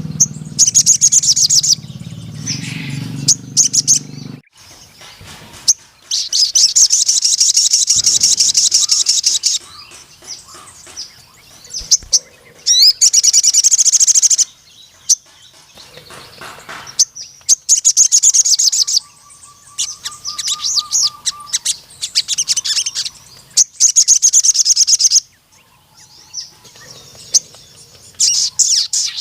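Sogon sunbird singing in its fast, long-running trilling bouts ("nembak panjang"): high-pitched rapid chattering phrases a second or three long, repeated with short pauses. A low hum sits under the song for the first few seconds.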